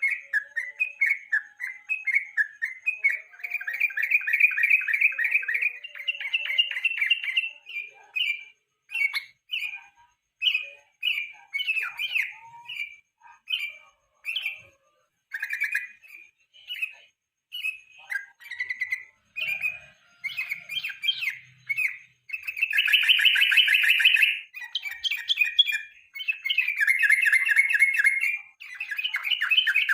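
Sooty-headed bulbul singing a run of short, bubbly phrases, broken by longer fast trills a few seconds in and again twice near the end.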